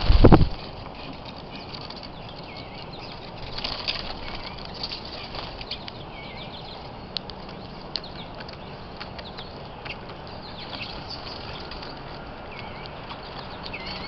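Small birds chirping with short, repeated calls throughout, with a few sharp clicks scattered among them. A brief loud low rumble right at the start, like a flurry of wings close to the microphone.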